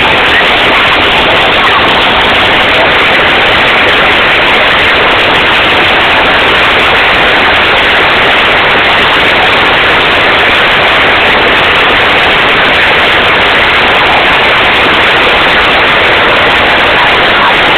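Hail falling in a loud, unbroken roar of dense pelting, the individual stones blurring together.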